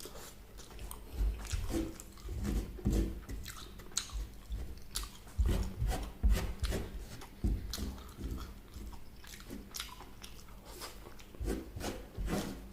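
A person biting and chewing food close to the microphone: irregular wet chews and crisp crunches, some a little louder in the middle.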